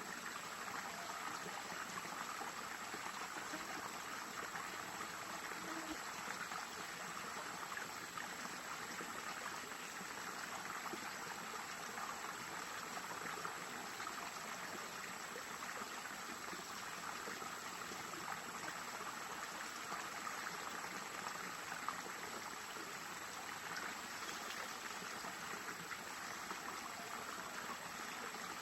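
Stream water flowing and burbling steadily over rocks, an even rushing noise with no pauses.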